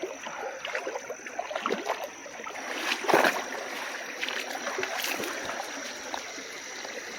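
Creek water running with a steady noise, broken by a few brief rustles and knocks of handling, the loudest about three seconds in.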